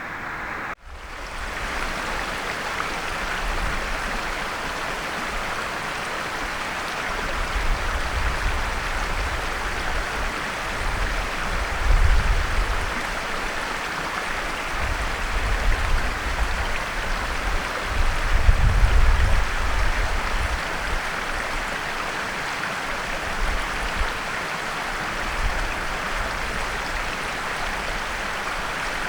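Steady rushing of flowing water, with low wind-like rumbles swelling twice, around the middle and about two-thirds of the way through. The sound briefly drops out just under a second in.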